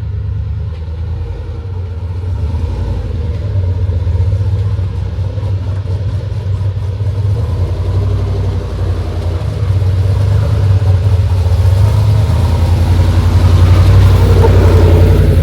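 Rock-crawling vehicle's engine running under load, a steady low rumble that grows louder over the last few seconds.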